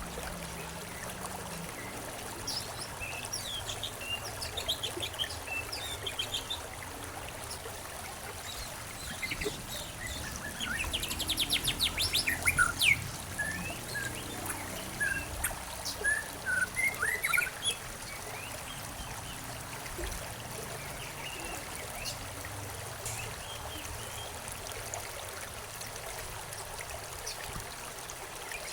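Songbirds chirping and calling over a steady trickling stream. The loudest part is a rapid trill about ten to thirteen seconds in, with scattered short chirps before and after it; in the last ten seconds there is mostly just the water.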